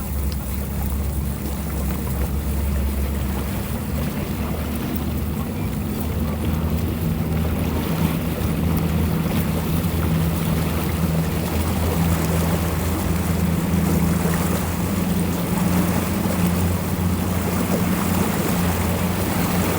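Boat engines running with a steady low hum, over a haze of wind and water noise.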